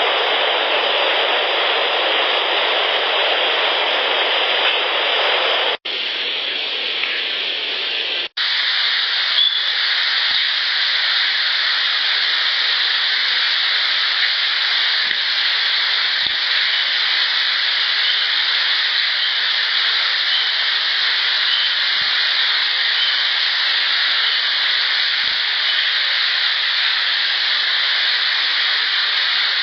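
Steady hiss of an outdoor field recording, broken twice by brief dropouts about six and eight seconds in, where one clip gives way to the next. A few faint, widely spaced clacks, about five, sound through the hiss; the recordist takes them for rocks being clacked together.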